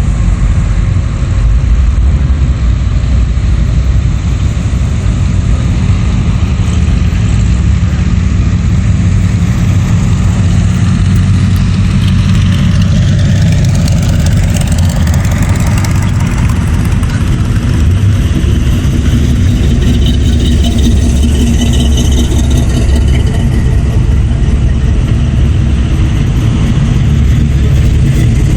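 Engines of hot rods and custom cars running loudly as they idle and creep past in a parade, a steady low engine note throughout. A vehicle revs up with a rising pitch about halfway through.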